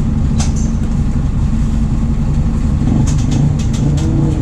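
MAN D0834 four-cylinder turbodiesel of a VW 17.230 OD bus running steadily, with a few sharp clicks, mostly in the second half.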